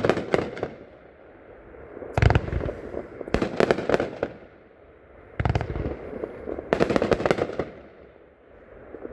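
A 30-shot consumer fireworks cake firing: volleys of shots launching and breaking in clusters of sharp bangs and crackles every second or two, with short lulls between.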